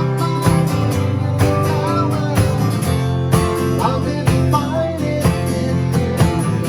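Acoustic guitar strummed in a steady rhythm, with a few short sliding melody notes.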